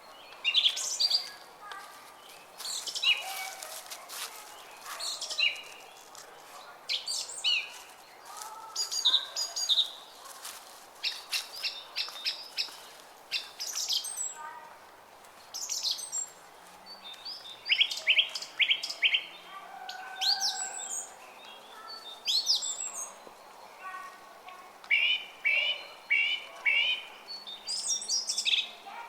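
Several small songbirds chirping and singing in quick, repeated bursts of short high notes, over a faint steady background of running brook water.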